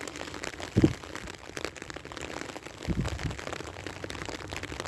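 Rain falling steadily, a fine crackly patter of drops, with two brief low thumps about a second in and about three seconds in.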